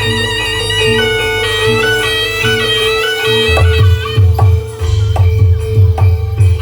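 Live barongan accompaniment music: a wavering wind-instrument melody over a steady drone note. About three and a half seconds in, a heavy drum beat joins at roughly three strokes a second.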